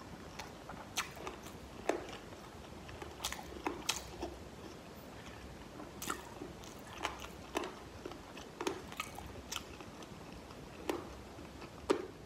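Close-miked chewing of fried chicken wings with the mouth closed: irregular crunchy clicks, a few a second.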